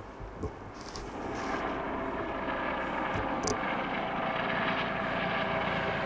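A fast freight train approaching behind two diesel locomotives: a steady engine-and-wheel rumble that grows louder from about a second in.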